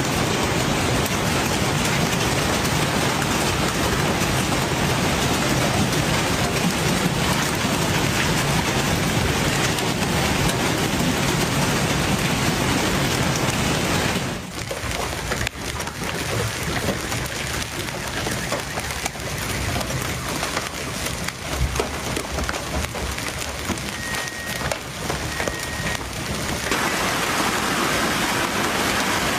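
Heavy rain and hail pelting down in a dense, steady hiss. About 14 seconds in it cuts to a thinner patter of many separate sharp hits, and near the end it cuts back to the dense downpour.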